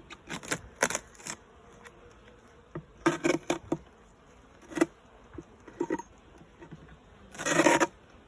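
Honey bees buzzing around an open hive, with a run of knocks and clatter from hive equipment being handled. A loud, noisy rush lasting about half a second comes near the end.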